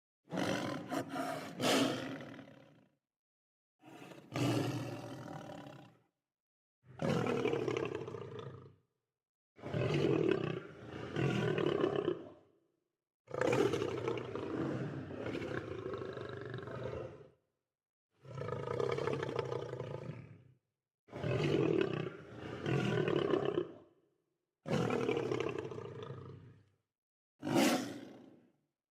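Lion roaring: a string of about nine separate roars and grunting calls, each one to four seconds long, with short silent gaps between them.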